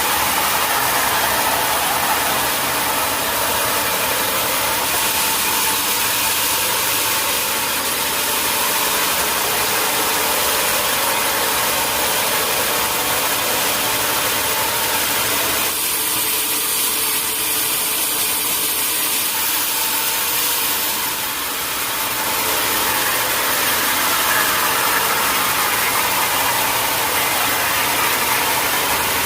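Sawmill machinery running steadily: a mechanical drone under a strong, steady hiss, its tone changing about halfway through and again a few seconds later.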